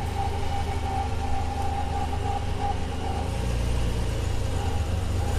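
Ferrari Testarossa Spider's flat-twelve engine idling with a steady low rumble, growing a little stronger about three seconds in.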